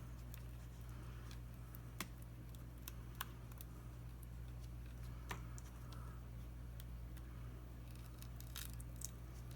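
Sparse sharp clicks and light taps, about five, from a plastic spudger and pry tools working at a tablet's glued touchscreen glass and frame to break the adhesive. A steady low electrical hum runs underneath.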